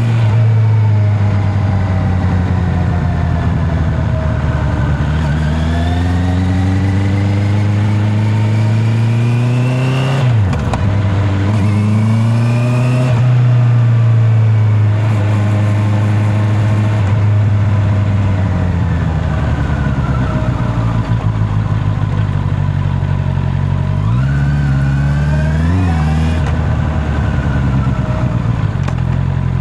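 Honda CB650R inline-four motorcycle engine under way, its pitch rising and falling with the throttle and gear changes. It dips sharply about ten seconds in, pulls up again, settles lower and steadier past the middle, and a short rev rises and falls near the end.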